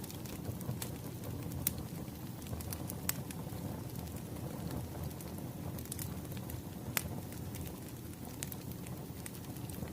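Wood fire crackling, with scattered sharp pops and snaps over a steady low rumble of burning logs; a few pops stand out louder, one near the start and one about seven seconds in.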